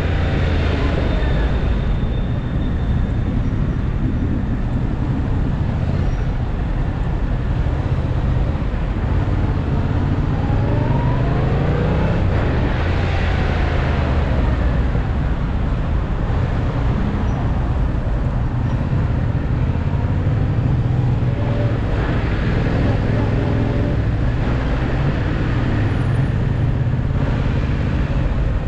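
Yamaha MT-07's parallel-twin engine running through city traffic, its pitch falling near the start and climbing again about ten seconds in as the bike accelerates, over a steady low rumble.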